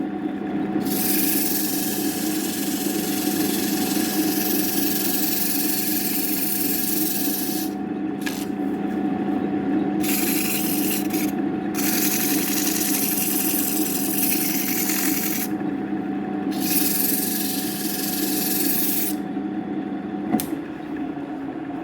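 CNC router cutting wood: the spindle motor hums steadily while the hiss of the bit cutting stops and starts several times.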